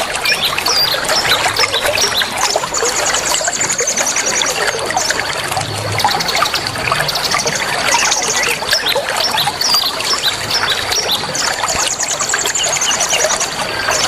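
Water trickling, with many small songbirds chirping over it and a steady high tone underneath; a high buzzy trill sounds twice, a few seconds in and again near the end.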